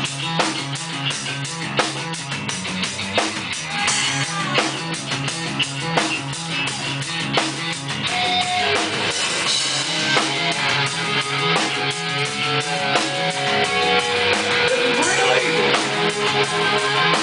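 Live rock band playing an instrumental intro: electric guitar, bass and drum kit with steady regular drum hits, recorded from within a concert crowd. The music gets fuller and a little louder from about halfway.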